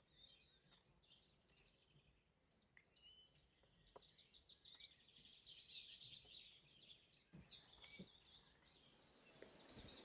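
Faint chorus of several songbirds singing over one another, with high chirps and trills; a fast trill of rapidly repeated notes starts near the end.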